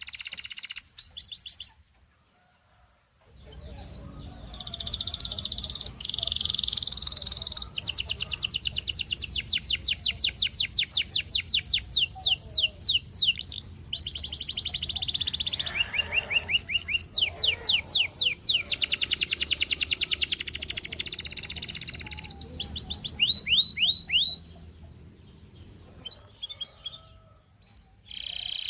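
Domestic canary singing: fast trills of repeated sweeping notes, several per second, in phrases broken by short pauses, over a faint low hum.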